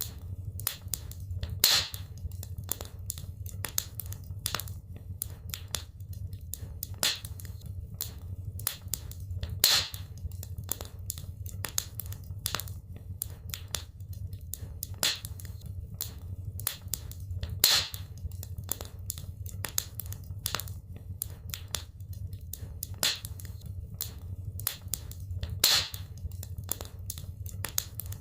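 Wood fire burning in a fireplace: a dense, irregular crackle of small snaps over a steady low rumble, with a louder sharp pop about every eight seconds.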